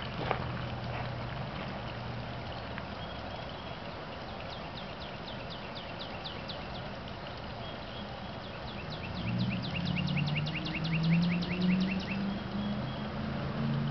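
A bird singing a rapid string of short down-slurred chirps, about six a second, for several seconds. In the last few seconds a low engine hum grows louder and becomes the loudest sound.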